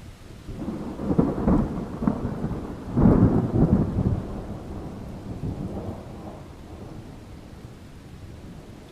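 A long roll of thunder over steady rain. It swells in with several loud peaks, is loudest about three seconds in, then rumbles away over the next few seconds.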